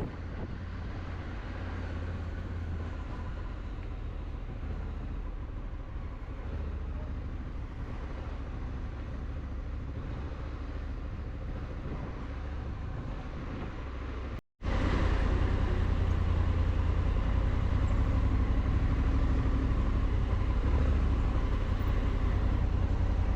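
Motorcycle riding along, its engine and wind noise making a steady rumble. The sound drops out for an instant about two thirds of the way through and comes back louder.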